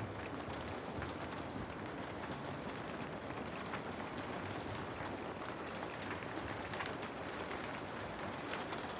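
Steady rain falling, an even hiss with scattered patter of drops.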